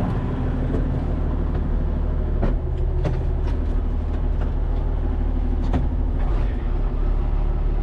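Case 2670 tractor's six-cylinder diesel engine running steadily, with a few faint clicks over it.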